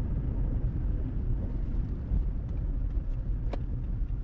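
Truck running on a test drive: a steady low rumble of engine and road noise, with one short click about three and a half seconds in. The engine runs smoothly, its misfire cured by new spark plugs and an ignition coil.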